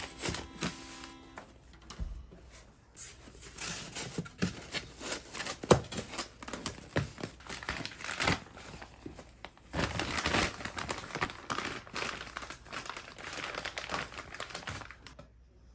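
Crinkling and rustling of something being handled, with many small sharp clicks and knocks, cutting off suddenly near the end.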